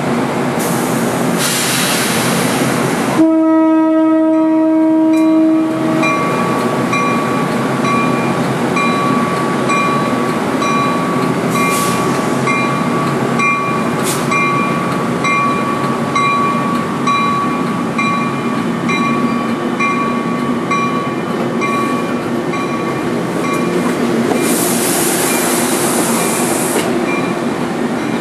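NJ Transit ALP-46 electric locomotive hauling passenger cars past on jointed track, a steady rumble with wheel clatter. About three seconds in, a multi-tone train air horn sounds once for roughly three seconds; after it, a thin ringing tone pulses about once a second for much of the pass.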